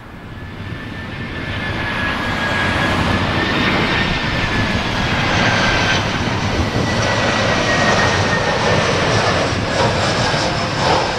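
Jet airliner engines running close by, getting louder over the first couple of seconds and then holding steady: a broad roar with a high whine that wavers slightly in pitch.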